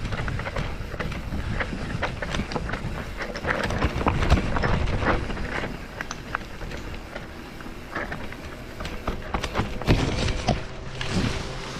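Rattling and knocking of a ride over a rough, rocky track: a constant low rumble with frequent irregular knocks and clatter, loudest around four seconds in and again near ten seconds.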